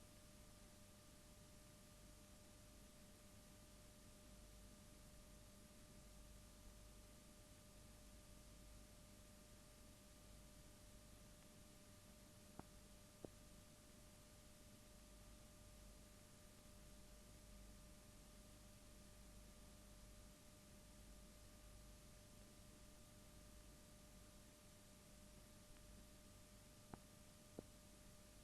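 Near silence: faint steady hiss with a thin constant hum-like tone, broken by two pairs of faint clicks, about halfway through and near the end.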